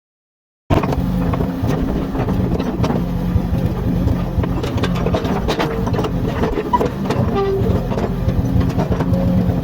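Komatsu hydraulic excavator working: a steady diesel engine drone with frequent metal clanks and knocks and a few short squeals. The sound starts suddenly just under a second in.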